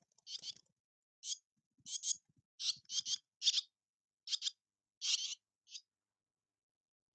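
A bird giving a series of short, raspy chirps, about a dozen, many in quick pairs, at irregular intervals.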